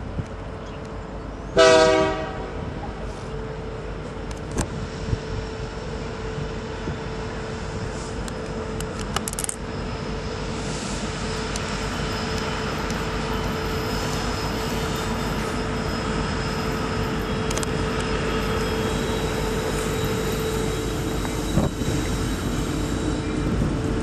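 Union Pacific train led by an EMD SD90 locomotive: one short horn blast about a second and a half in, then the train's steady rumble and hum with scattered clicks, slowly growing louder.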